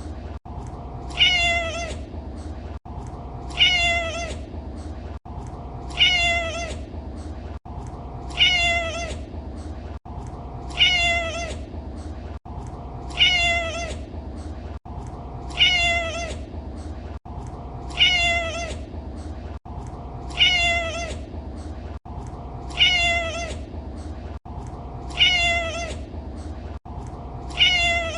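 Domestic cat meowing, the same short meow repeated over and over about every two and a half seconds as a loop, with a slight click at each seam. A faint steady low hum runs underneath.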